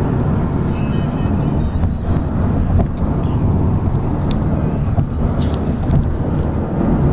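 Car driving along: a steady low rumble of road and engine noise heard from inside the cabin.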